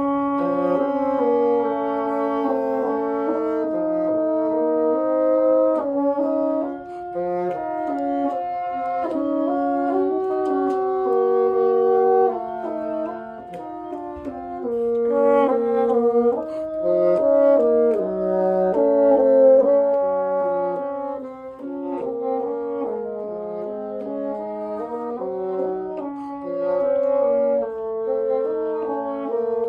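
A bassoon section playing a passage together in several parts, with sustained notes moving in steps and a few brief dips between phrases.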